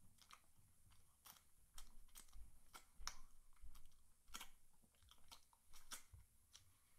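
A person chewing crispy fried chicken: irregular crunchy clicks and crackles, with a few soft low thuds.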